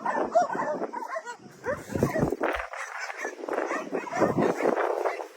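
Dogs whining and yipping: many short cries that bend up and down in pitch, with a few dull knocks about two seconds in.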